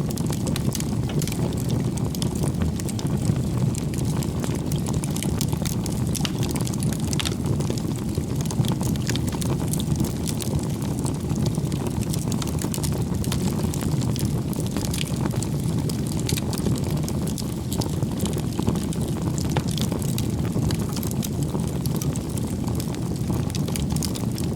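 Campfire burning steadily: a low, even roar of flames with frequent small crackles and pops from the burning wood.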